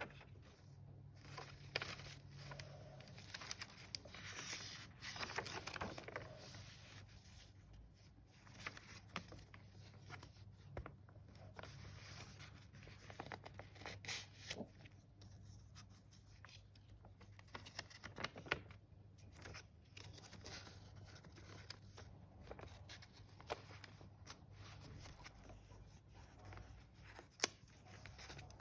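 Paper pages of a handmade junk journal being turned and handled: soft rustling and crinkling with light taps and clicks, and a longer rustle about five seconds in, over a faint low hum.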